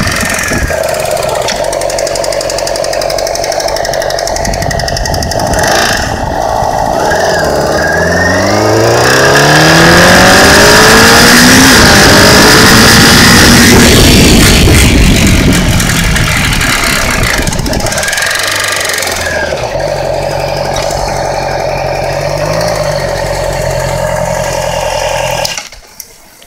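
2008 Yamaha YZF-R6 inline-four engine under way: it revs up with a sharply rising pitch, is loudest and noisiest through the middle, then drops back to a steady low run before cutting off abruptly near the end. The owner is chasing a ticking noise that rises and falls with rpm and stops when the clutch is pulled in, which he suspects comes from the cam timing chain.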